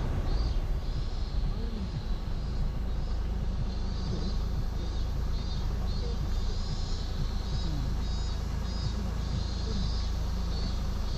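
Car driving along a road, its engine and tyre noise a steady low rumble through a GoPro's built-in microphone, with a high buzz pulsing above it.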